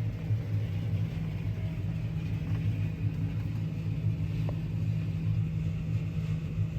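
Diesel farm machinery engine running steadily, a low, even hum.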